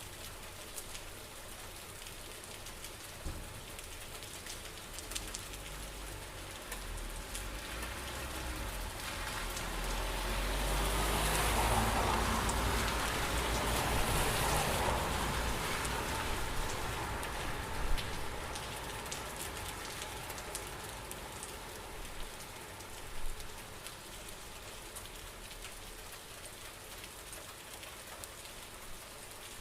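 Steady rain falling, with scattered louder drops. In the middle a low rumbling swell rises and fades over about ten seconds.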